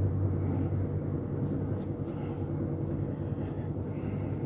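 A steady low hum, with a few soft, brief rubbing swishes of fingers spreading and smoothing paint over a cork base.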